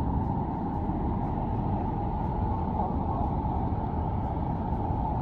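Steady low roar of Victoria Falls' water crashing down, an even rumble with no breaks.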